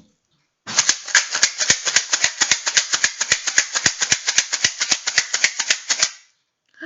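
Homemade shaker, a little bottle with a hidden dry filling, shaken briskly and evenly at about seven shakes a second, its filling rattling against the sides; it stops about a second before the end.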